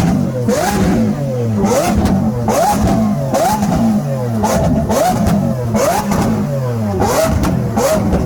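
Car engine being revved over and over, about one quick rev a second: the pitch climbs sharply with each blip and falls back toward idle before the next.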